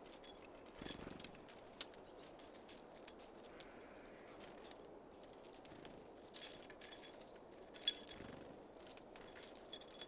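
Small birds at a feeder: a few thin, very high short calls and scattered light taps and clicks, with one sharp click near the end.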